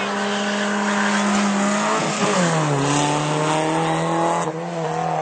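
Car engine at full throttle on a drag strip: a high, steady engine note drops about two seconds in at an upshift, then climbs again as the car pulls through the next gear. The sound changes abruptly to a quieter engine note near the end.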